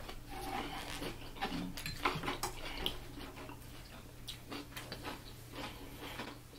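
Close-miked eating sounds: chewing and small wet mouth clicks as grilled sausage is eaten by hand, with light taps of fingers picking pieces off a wooden serving board.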